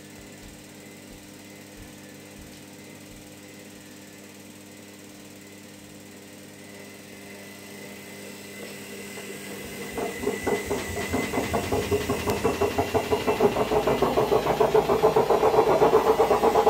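Haier HW60-10636A washing machine running: a faint steady hum, then about ten seconds in the drum starts turning harder, with a rhythmic pulsing that grows steadily louder as it picks up speed.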